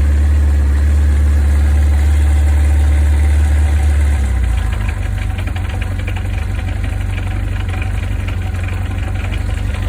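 Zéphyr engine idling from a cold start on full choke. It runs steadily, then about four seconds in its note drops and turns less even, with a light rapid clatter. The owner calls this rough running normal for a Zéphyr.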